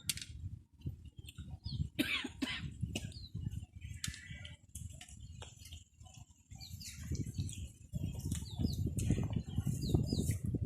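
Someone eating watermelon: irregular wet clicks and bites over a fluttering low rumble, with short high squeaks scattered through and louder chewing from about eight seconds in.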